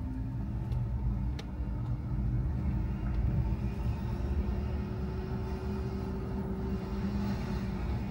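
Car driving, with a steady low engine and road rumble and an engine note that slowly rises as the car picks up speed.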